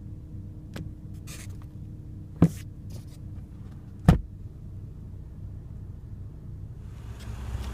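A few sharp plastic clicks and knocks from the sun visor and its mirror cover being handled, the loudest about four seconds in, over a steady low hum from the car idling.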